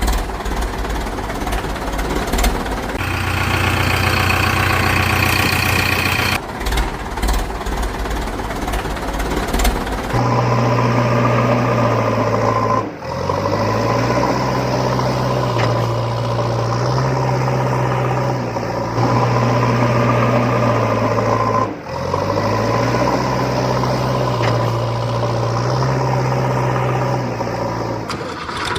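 Engine running loudly, mixed with clattering noise for the first third, then settling into a steady drone whose pitch steps up and down between two speeds, dropping out briefly twice.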